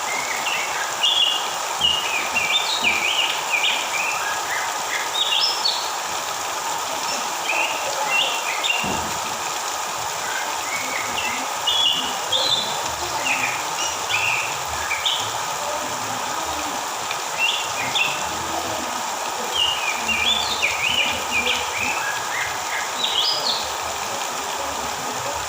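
Oriental magpie-robin (kacer) singing phrases of quick chirps and whistles every few seconds, over a steady background hiss.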